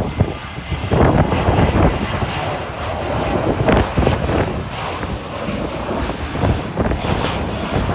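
Boeing 737-800 jet engines at takeoff power, heard through heavy, irregular wind buffeting on the microphone from strong gusts.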